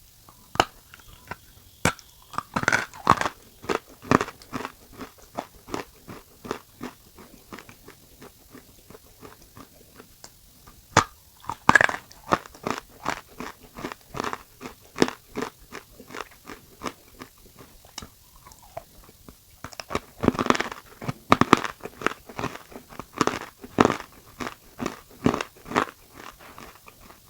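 Close-miked crunching and chewing of crisp semi-roasted food: loud bites followed by steady chewing at about two crunches a second, with louder bursts of fresh bites three or four times.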